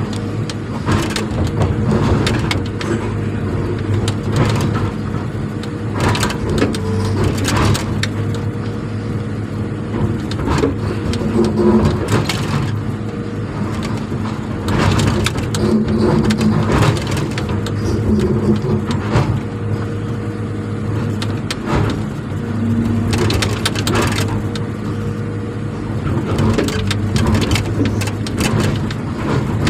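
A steady motor hum with frequent cracking and crunching over it.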